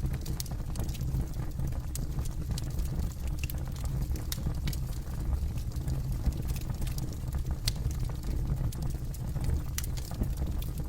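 Campfire burning and crackling: irregular sharp pops and snaps of the burning wood over a steady low rumble of the flames.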